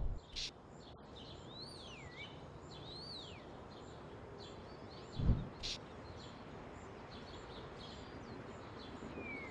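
Faint steady outdoor background noise with a bird giving two swooping whistled calls, each rising then falling, in the first few seconds, and a few fainter chirps after. A short, soft low thump sounds about five seconds in.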